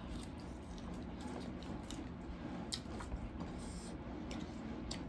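Faint eating sounds: chewing with scattered small, sharp clicks and smacks against a low room background.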